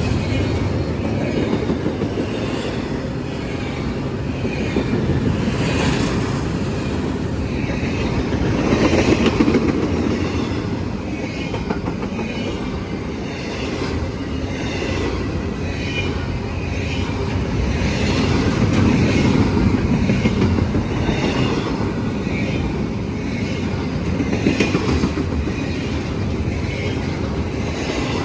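Freight train rolling past, a steady rumble with its wheels clicking over the rails in a regular rhythm.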